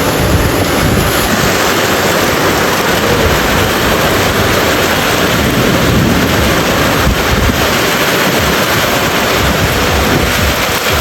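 Heavy rain pouring down, a loud steady rush, with wind rumbling on the microphone.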